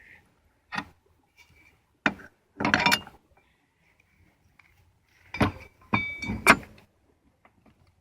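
Loose metal parts clanking and clinking in handling: a lawnmower wheel, its bolt and stacked washers being fitted back on. There are several separate sharp knocks, a few ringing briefly.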